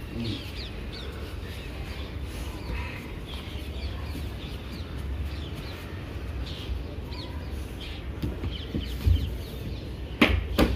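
Birds chirping in the background, many short high calls that slide downward, over a steady low rumble. Two sharp thumps come near the end.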